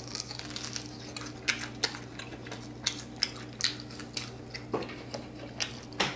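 Close-up crunching and chewing of a crispy cornstarch-fried pork spare rib, with sharp crunches every half second to a second. A steady low hum sits underneath.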